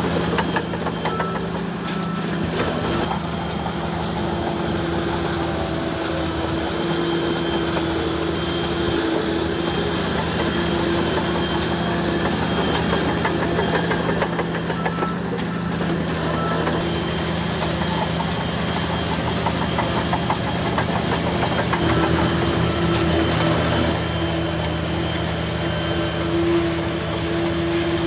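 Bulldozer diesel engine running steadily, with small shifts in engine speed a few seconds in and again near the end.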